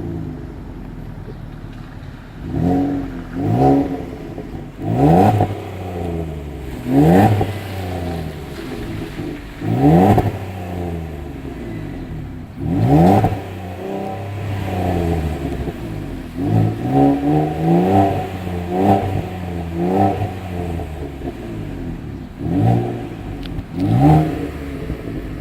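Ford Explorer engine heard through its reworked, sound-tuned exhaust, idling and revved again and again in short throttle blips. Each blip rises in pitch and falls back to idle, with a run of smaller quick blips in the middle.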